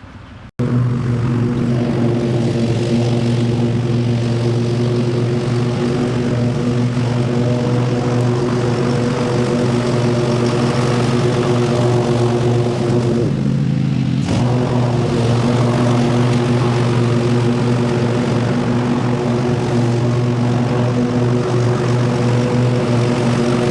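Lawn mower engine running steadily at a constant speed. It starts abruptly about half a second in, and its tone changes briefly a little past the middle.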